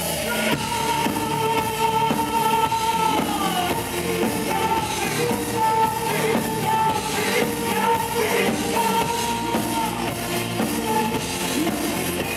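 Rock band playing live: drums and band under a melody of long held notes, one sliding down about three and a half seconds in.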